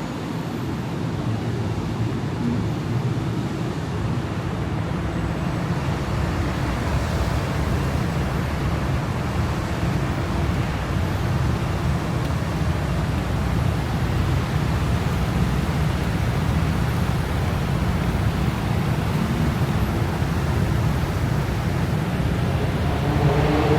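Steady city traffic: passing cars and buses with engine hum and tyre noise on wet streets. A louder pitched drone swells in near the end.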